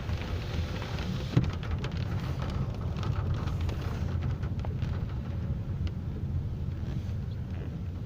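Rain falling, with a steady low rumble under it and scattered ticks of drops; one sharp knock about a second and a half in.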